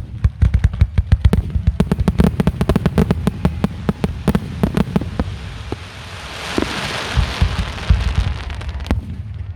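Aerial fireworks display: a rapid barrage of shell bursts, many sharp bangs a second over deep booms. About six seconds in it gives way to a steady hiss with lower booms, then one last sharp bang near the end.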